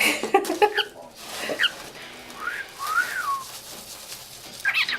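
Cockatiel chattering a garbled imitation of a learned phrase, which the owner calls 'remixing', then whistling a note that glides up and back down about halfway through, with more chattering near the end.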